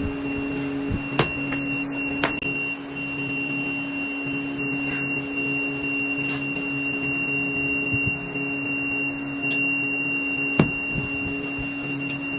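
A machine running with a steady hum and a thin, constant high whine, with a few sharp knocks: two in the first few seconds and a louder one near the end.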